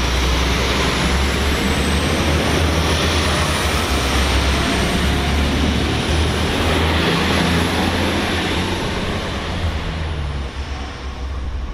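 A train passing close by: a steady low rumble and rolling noise with a faint high whine that wavers in pitch, fading near the end.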